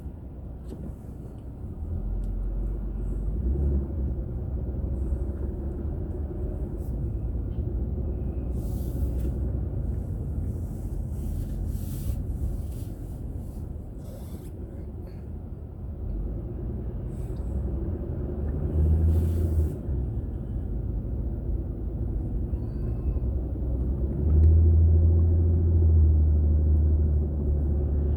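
Low rumble of a car's engine and road noise inside the cabin. It grows louder about two seconds in and louder again near the end, with a few short hisses in between.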